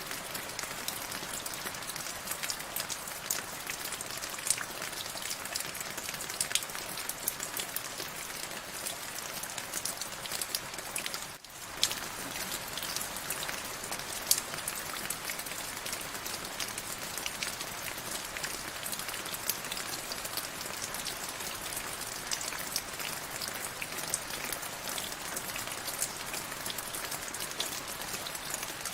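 Steady rain, a dense hiss with many individual drops ticking close by. It dips out for a split second about eleven seconds in.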